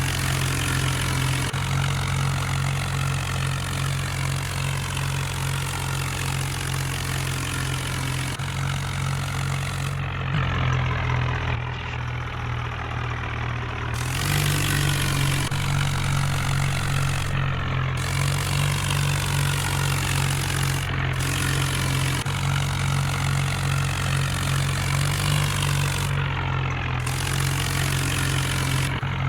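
Tractor engine running steadily at low speed. Its note drops for a few seconds in the middle, then settles slightly higher.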